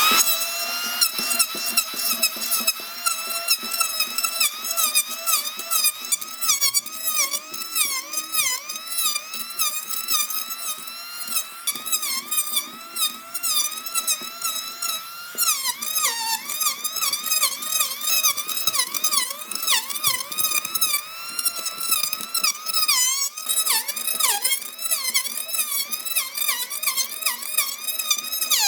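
Electric power tool motor whining at high speed after a quick spin-up, its pitch sagging and recovering again and again, about twice a second, as it is pressed into the wood and bogs under load.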